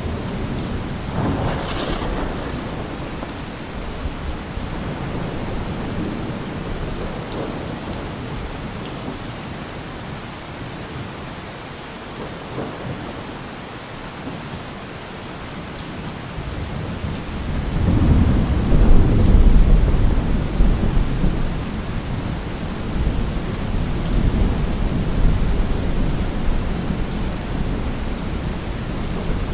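Steady heavy rain with thunder: a short rumble about a second in, then a long, loud rolling peal starting about halfway through that fades slowly back into the rain.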